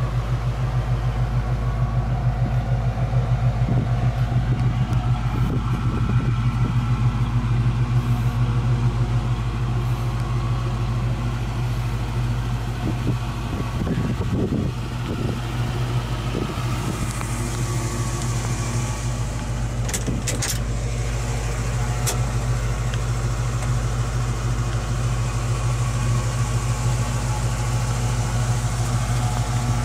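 A 1967 Ford Mustang's C-code 289 V8 idling steadily with a deep, even hum. A few sharp clicks come about two-thirds of the way through.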